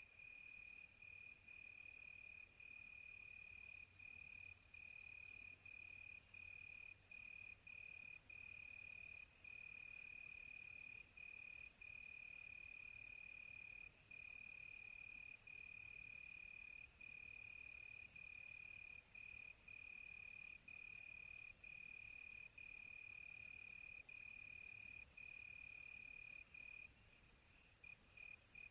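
Crickets trilling at night: one steady, high-pitched trill with brief breaks, turning into short chirps near the end. A second, higher insect pulses rapidly from about twelve seconds in until about twenty-five seconds in.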